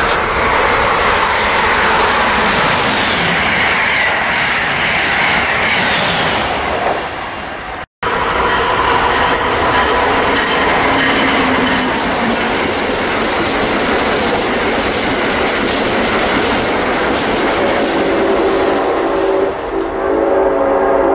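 Amtrak passenger train hauled by an ACS-64 electric locomotive passing at speed: a steady rush of wheels on rail with a clickety-clack over the joints. A sharp cut about eight seconds in, and the noise thins out near the end.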